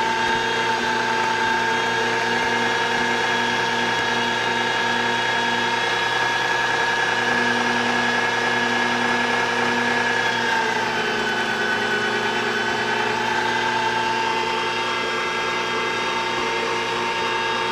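Electric meat grinder's motor running with a steady whine; its pitch dips slightly about ten seconds in and then recovers.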